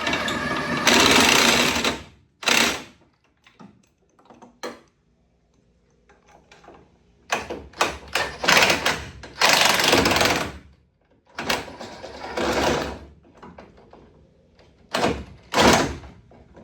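Impact wrench running fasteners in repeated short bursts of one to three seconds, with pauses between them.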